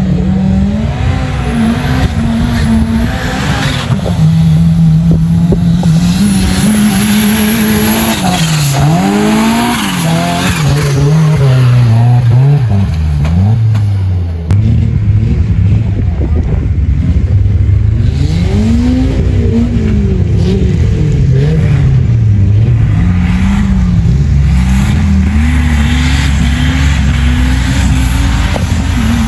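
Vehicle engine revving up and down over and over, its pitch climbing and falling every few seconds as it works under load.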